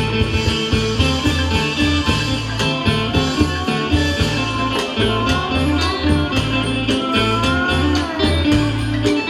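Isan pong lang folk ensemble playing a lively piece: plucked string melody over repeating bass notes and a steady drum beat.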